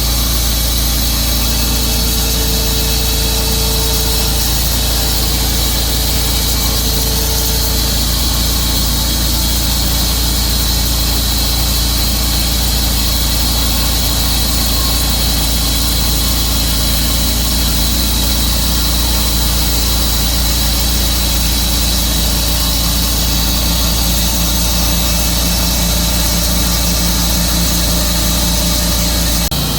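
Tru-Cut bandsaw sawmill running steadily as it saws through a blue pine log: a loud, even engine-and-blade drone.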